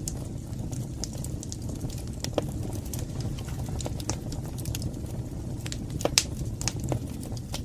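Wood fire burning in a fireplace: a steady low rumble of flames with irregular sharp crackles and pops, the loudest pop about six seconds in.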